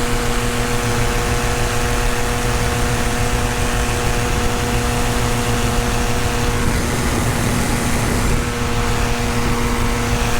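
Tandem paramotor's engine and propeller running steadily in flight, a loud, even drone with wind noise. The engine note wavers briefly about seven seconds in.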